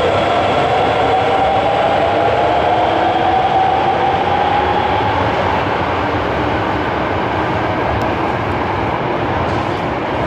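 Underground commuter train running through the station platform, with steady wheel and rail rumble. Its traction motors give a whine that rises slowly in pitch over the first few seconds, as the train picks up speed, and then fades.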